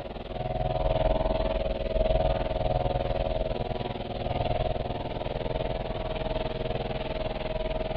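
A steady droning hum with a low rumble beneath, swelling and easing every second or two.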